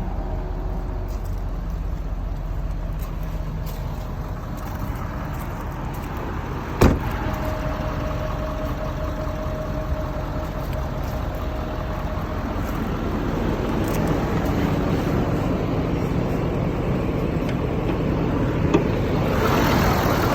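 Ford 6.7 L Power Stroke V8 turbodiesel idling steadily, with one sharp knock like a door or panel slamming about seven seconds in. The running engine grows louder over the last several seconds.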